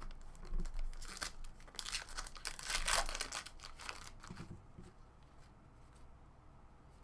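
A trading-card pack's foil wrapper being torn open and crinkled, a dense crackling rustle that peaks a few seconds in and then dies down to light handling.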